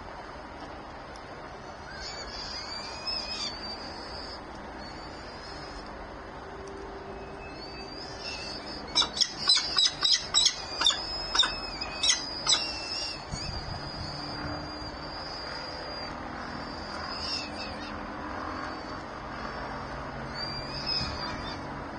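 Birds calling at a nest: thin high calls a couple of seconds in, then a quick run of about ten loud, short calls in the middle, then more scattered high calls.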